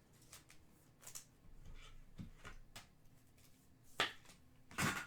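Panini Prizm trading cards being handled and flipped through, giving a few short sharp clicks and swishes. The loudest come about four seconds in and near the end.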